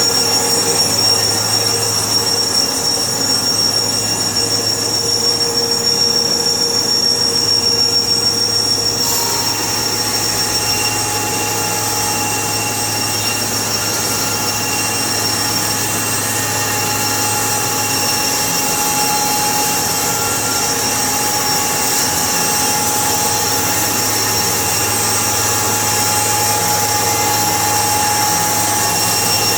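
Sawmill machinery running with a steady whine. About nine seconds in, a higher hiss comes up and a new, higher whine sets in, then both run on steadily.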